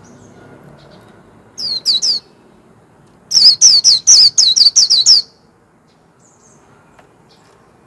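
A white-eye sings two loud bursts of high notes, each note falling in pitch: first three quick notes, then a second later a fast run of about nine, the rapid 'líu' warbling song.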